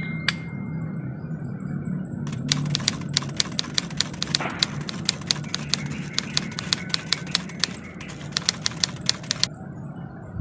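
A quick, uneven run of sharp ticking clicks, about three or four a second, like typewriter keys. It starts about two and a half seconds in and stops about seven seconds later, over a low steady hum.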